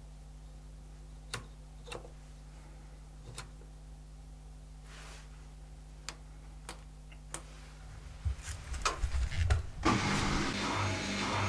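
Zanussi ZKN7120L washing machine mid-cycle: a few sharp clicks over a steady low hum, then low rumbling knocks from about eight seconds in, and near the end the drum motor starts up with a pulsing whine.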